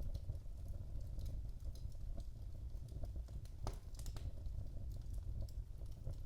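Wood fire burning in a fireplace: a steady low rumble of the flames with irregular sharp crackles and pops, the loudest pop about three and a half seconds in.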